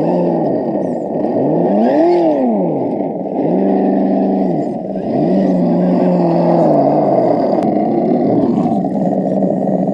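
Simulated truck engine sound from an ESS-One sound unit on an RC scale trail truck, revving up and falling back three times and then running steadier, with little treble.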